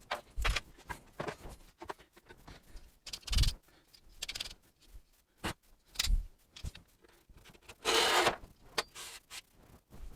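Hand-tool work on the edge banding of a wooden drawer front: irregular short scraping and rubbing strokes with a few light knocks, and one longer, louder scrape about eight seconds in.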